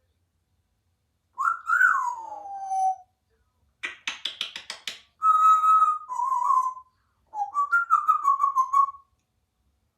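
Congo African grey parrot whistling: a note that rises then slides down, a quick run of clicks, then a held whistle followed by a wavering, stepped whistle.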